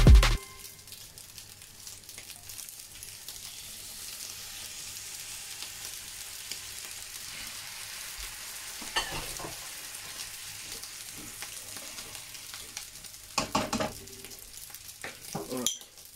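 Pork sizzling steadily as it fries in a hot pan. A utensil scrapes and knocks against the pan a few times in the second half as the meat is stirred.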